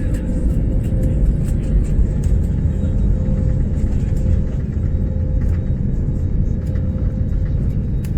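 Steady low rumble of an Airbus A321 airliner heard from inside the passenger cabin: engine and airframe noise, with faint clicks and rattles over it.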